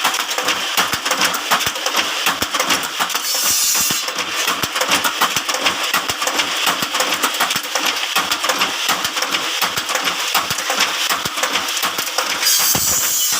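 Bamboo satay-skewer (lidi) making machine running with a dense, rapid metallic clatter.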